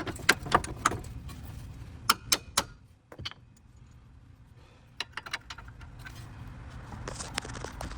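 Clusters of sharp clicks and knocks from hand work on a car's front suspension, with a short rustling swell near the end.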